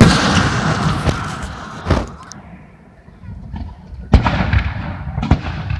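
Aerial fireworks bursting. A loud bang opens, trailing into crackling for about two seconds, another bang follows about two seconds in, and two more come near the end.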